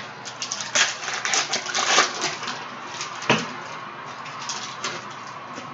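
Trading cards being handled and flipped through by hand: a quick run of clicks, taps and slides, busiest in the first three seconds. One short, louder sound comes about three seconds in.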